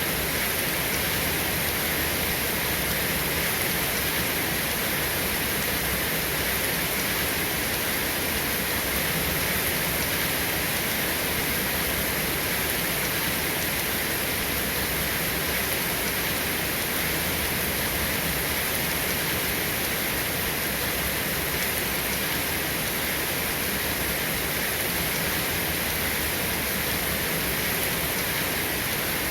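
Steady rain falling, an even hiss that holds at the same level throughout, with no thunder.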